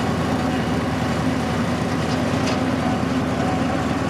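Tourist train running steadily, its engine giving a constant low drone, with a faint click about two and a half seconds in.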